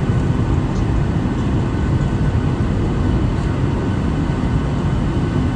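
Boeing 737-800 airliner heard from inside the cabin: a steady low rumble of its CFM56 jet engines and the airflow over the fuselage.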